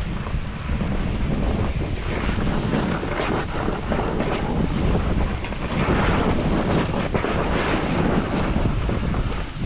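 Wind rushing over the microphone during a snowboard descent, with the board's edge scraping and hissing over the snow in uneven swells.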